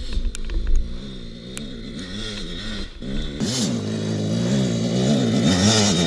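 Dirt bike engine revving, its pitch rising and falling with the throttle, faint at first and getting much louder from about three and a half seconds in as the bike comes up the hill.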